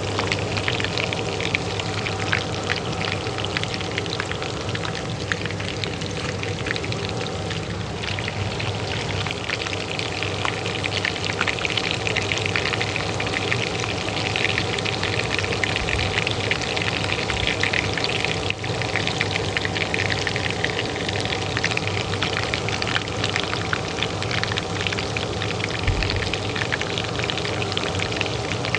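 Hot oil frying in a pan, a dense, steady crackle and sizzle, over the steady hum of a range hood fan.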